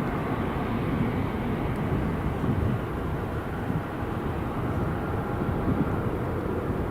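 Boeing 747 jet engines at climb power just after takeoff: a steady low rumble.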